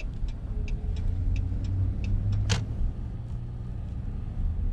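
Truck's engine and road noise heard inside the cab while driving, a steady low hum. A run of light ticks comes in the first half, and a sharper click about halfway through.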